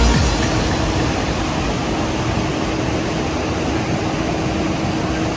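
Steady roar of a large waterfall's falling water, with a faint steady hum running beneath it.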